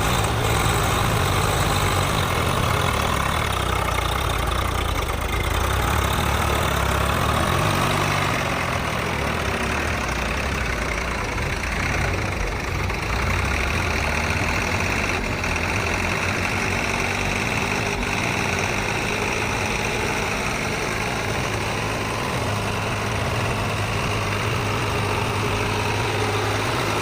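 Diesel tractor engines running, a steady low drone.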